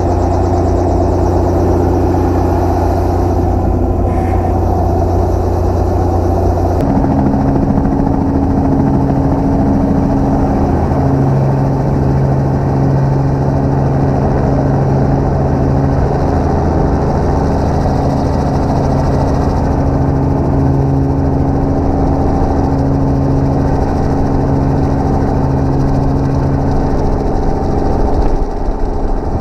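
Helicopter engine and rotor running steadily, heard from inside the cabin; the pitch of the drone shifts about seven seconds in.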